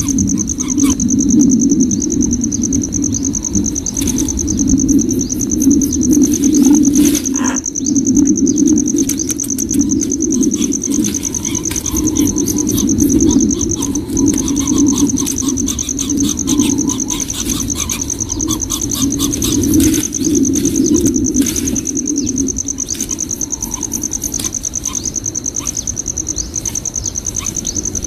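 Steady high-pitched insect trill, like a cricket or cicada, over a louder low hum that swells and fades about once a second, with scattered clicks.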